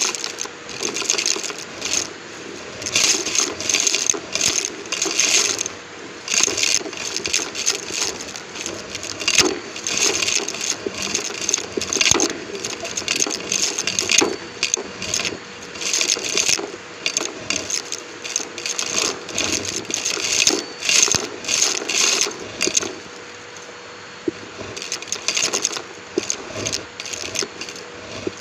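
Numatic James vacuum cleaner running with a steady hum, picked up close by a microphone on the machine, over dense, irregular crackling and rattling as crunchy debris is sucked through. The crackling eases off for a couple of seconds near the end.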